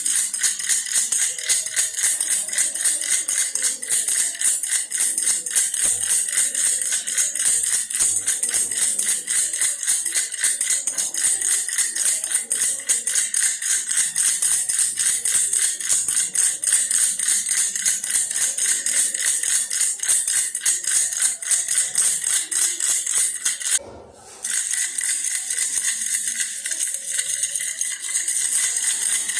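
Toy-bear baby rattle shaken rapidly and continuously, a bright, dense jingling clatter, with one brief break about 24 seconds in.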